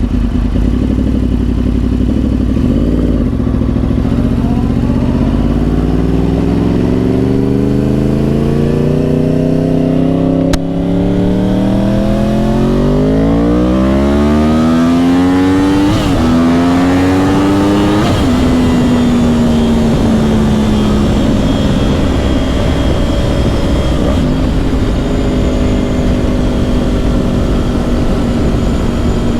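2010 Yamaha YZF-R1's crossplane inline-four through dual Yoshimura exhausts, under way: the engine note climbs steadily for about twelve seconds, breaks briefly about halfway through and climbs a little more, then falls as the throttle is eased and settles to a steady cruise for the last several seconds.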